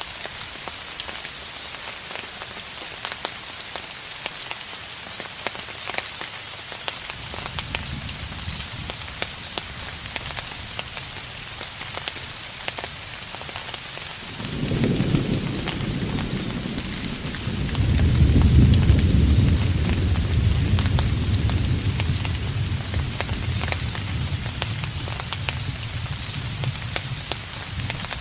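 Steady rain pattering, with distant thunder: a faint low rumble early on, then a roll of thunder that sets in suddenly about halfway, swells to its loudest a few seconds later and rumbles away slowly.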